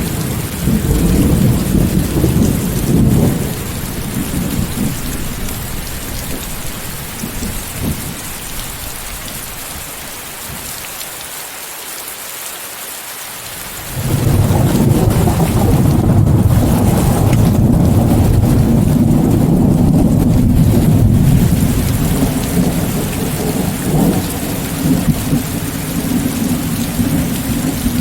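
Steady rain under rolling thunder, mixed with white noise. The opening rumble dies away over the first few seconds. About halfway through a long peal of thunder starts suddenly and rolls on for several seconds before easing.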